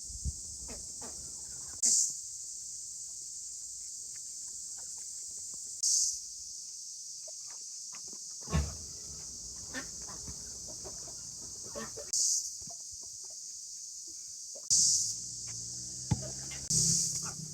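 Steady high-pitched chorus of insects, with a louder shrill burst every few seconds. Scattered knocks and clatter from close by, busier near the end.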